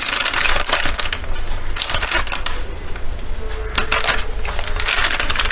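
A teaspoon and spice containers being handled while spice powder is measured out: a quick run of small clicks and scrapes.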